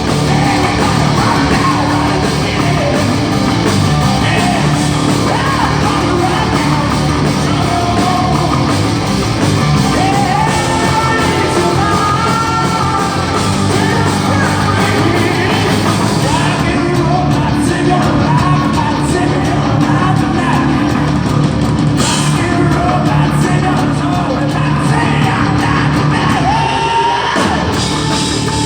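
Hard rock band playing live, with distorted guitars, drums and a singer yelling and singing over them.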